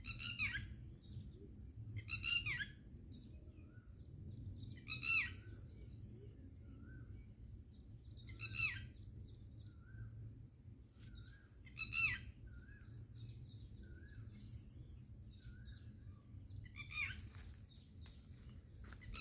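Birds calling in the open: one bird repeats a loud, harsh call that slides downward, every few seconds, with softer short chirps and whistles from other birds in between. A steady low rumble runs underneath.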